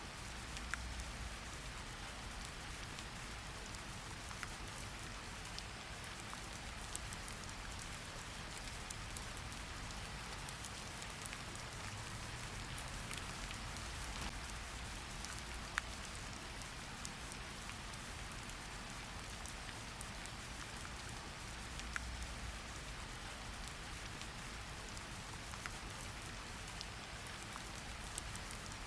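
Steady rain falling, an even hiss with scattered sharp ticks of individual drops landing.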